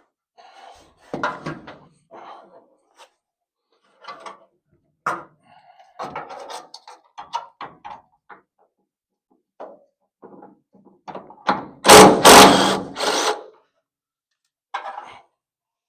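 Metal tool clinks and knocks as door hinge bolts are worked loose from inside a car body, then a power tool runs in a loud burst of about a second and a half near the end.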